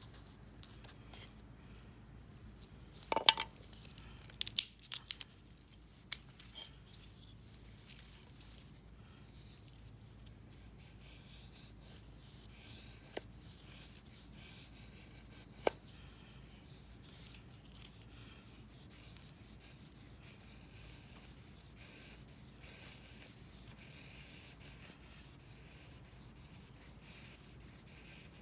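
A knife shaving curls off a stick of wood to make a feather stick: faint, repeated scraping and rubbing, with a cluster of sharp clicks and knocks about three to five seconds in and a couple of single clicks later.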